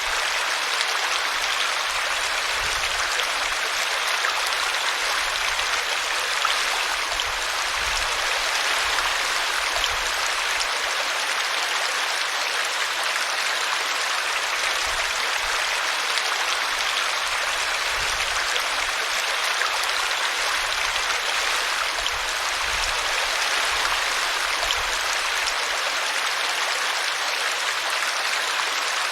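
A small brook running steadily over a tree root, a continuous rushing and splashing of water.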